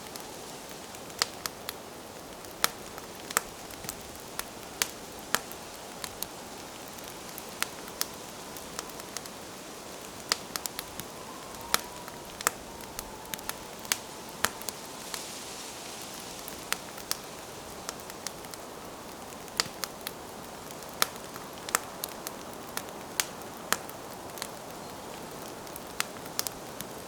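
Campfire burning: wood crackling and popping in irregular sharp snaps, several a second at times, over a steady soft hiss.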